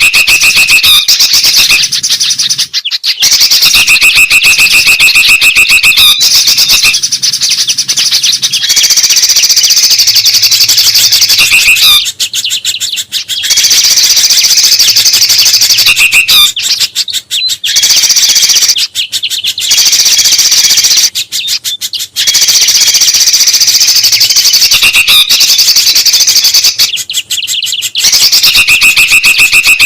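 Bird-lure recording of bulbuls and spiderhunters, several birds' calls layered into loud, dense chattering and trills. The calling comes in abrupt stretches that stop and restart every few seconds, like looped clips.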